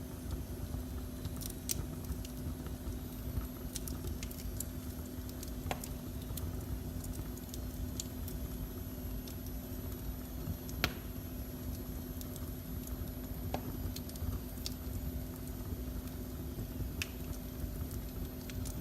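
Wood fire burning in a fireplace, with scattered sharp crackles and pops, the loudest a little past the middle, over a steady low rumble and hum.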